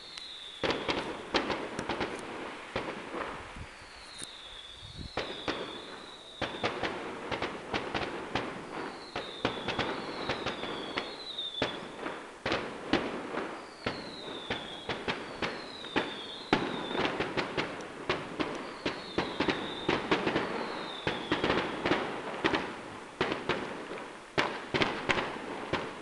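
Distant fireworks display: a fast, irregular run of bangs and crackles, with short falling whistles in groups of two or three every few seconds.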